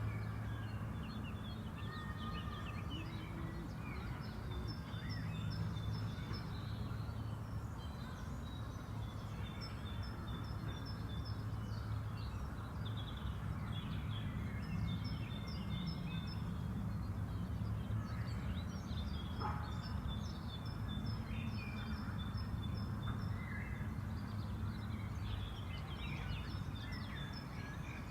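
Songbirds singing and chirping in a park, one bird repeating a short phrase of quick high notes about every five to six seconds. Underneath runs a steady low hum.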